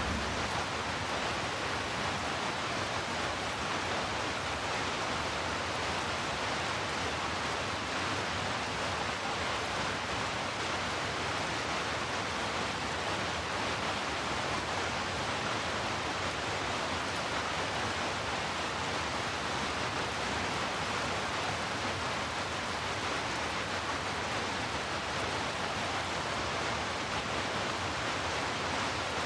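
Heavy rainfall blended with brown noise: a dense, even hiss with no separate drops, gusts or other events.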